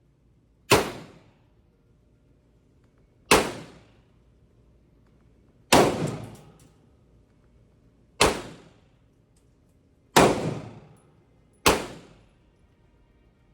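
Six single pistol shots from a 9mm Glock 19 fired slowly, one every two seconds or so, each sharp crack followed by a short ringing tail.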